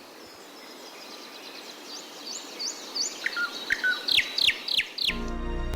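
Birdsong: a run of quick, high chirps over a faint hiss, growing louder. Music starts suddenly about five seconds in.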